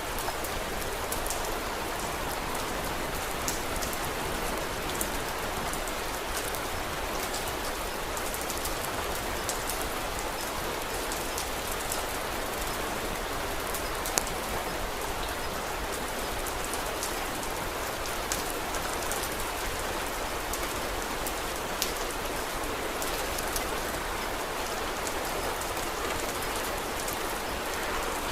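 Steady rain falling, an even hiss with scattered sharp ticks of individual drops; a few louder single clicks stand out, the clearest about halfway through.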